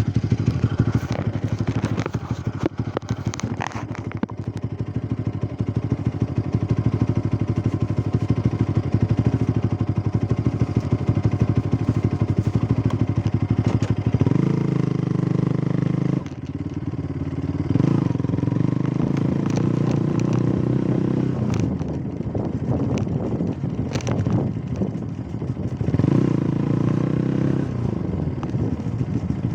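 A vehicle engine running, loud and steady, its note shifting up and down several times, as with changes of speed or gear.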